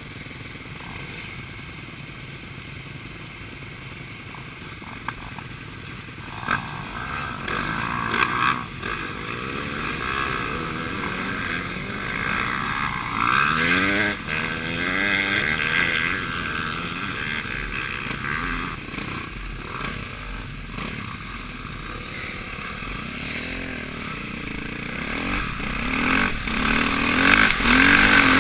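Suzuki RM-Z450 motocross bike's four-stroke single-cylinder engine revving and pulling away, its pitch rising and falling repeatedly, quieter for the first few seconds and louder toward the end, heard from a helmet-mounted camera.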